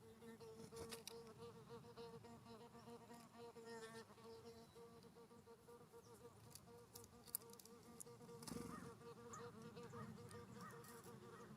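A flying insect buzzing close to the microphone: a faint steady hum that wavers slightly in pitch, with scattered faint clicks over it.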